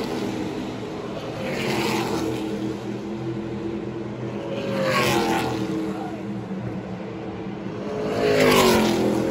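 NASCAR race trucks passing at speed, their V8 engines swelling and dropping in pitch as they go by, three times about three seconds apart, over the steady drone of the rest of the field.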